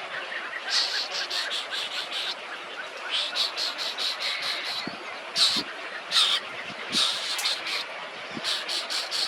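Bird calling in quick runs of short, sharp, high notes, about five or six a second, repeated several times over a steady background noise.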